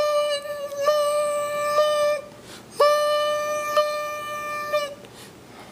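Volkswagen Passat's door-ajar warning chime: a steady electronic tone held about two seconds, then after a short gap held again for about two seconds, with small clicks in it.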